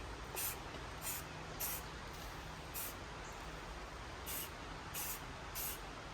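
Aerosol spray-paint can sprayed in short hissing bursts, about seven of them at uneven spacing, as in graffiti painting.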